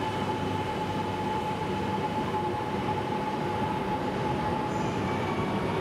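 Steady hum of a standing E926 'East i' Shinkansen inspection train, with a single held tone that fades out near the end.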